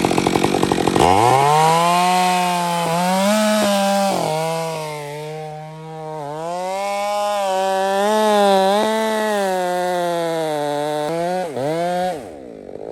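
Two-stroke chainsaw making a felling back cut into very hard Australian pine (ironwood), wood so hard it comes out as powder instead of chips. The engine revs up about a second in and runs at high speed, its pitch sagging and recovering again and again as the chain bites. It dips twice near the end, then winds down.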